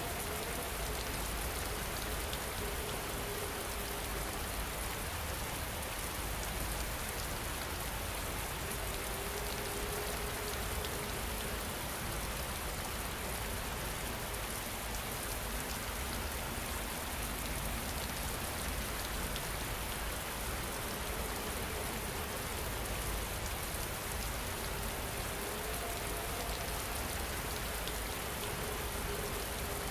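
Steady rain falling, a continuous even patter with no breaks. Faint soft held tones surface a few times, near the start, about ten seconds in and near the end.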